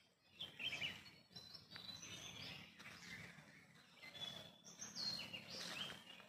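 Wild birds calling faintly: scattered short high chirps and whistled notes, with a falling whistle about five seconds in, over a low background rustle.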